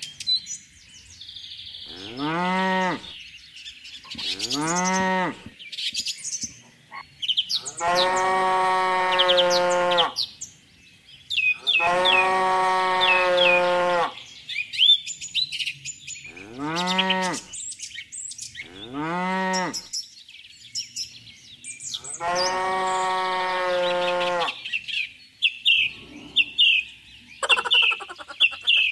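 Cattle mooing about seven times, some calls long and level, others short and rising then falling. Small birds chirp throughout, most busily near the end.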